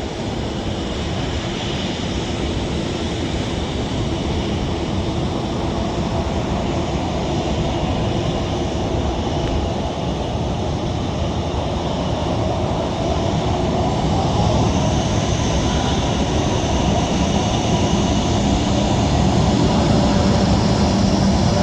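Jet airliner engines running with a steady rushing noise that grows gradually louder over the second half.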